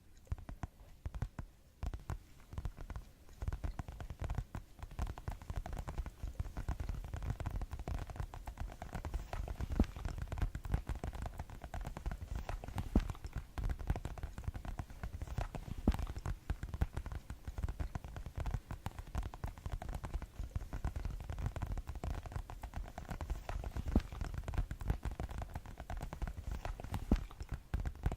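Fast ASMR tapping: fingers tapping rapidly and continuously on objects, a dense stream of quick taps.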